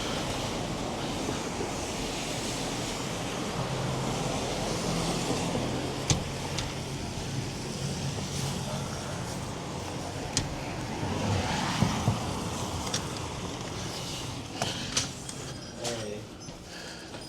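Street traffic: a car engine hums close by over steady road noise, fading out about twelve seconds in. A few sharp knocks come through the second half.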